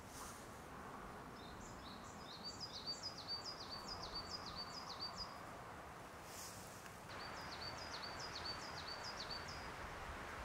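A small songbird singing two runs of quick repeated high notes, each note sliding down then levelling off, about three a second, over a steady hiss of outdoor background noise.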